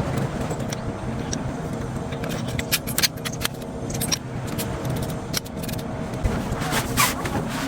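Light metallic clinks and rattles, as of tent poles and pegs being handled, scattered over a steady low rumble.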